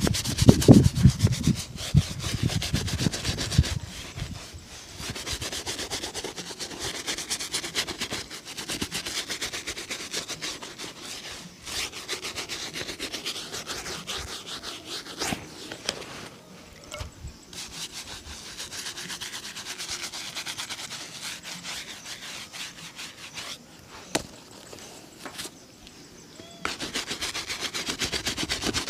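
Shoe being rubbed and polished by hand: rapid, continuous scrubbing strokes over leather, with heavy low handling knocks in the first few seconds.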